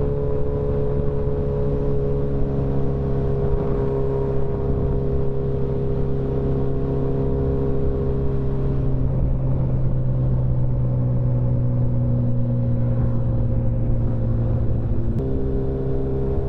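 Motorcycle engine cruising at a steady pitch, heard from on the bike, with wind and road rumble. The engine note sags slightly and then changes abruptly near the end.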